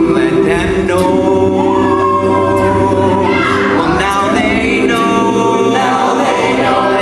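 A cappella vocal group singing in harmony, voices only with no instruments, several parts held together in chords.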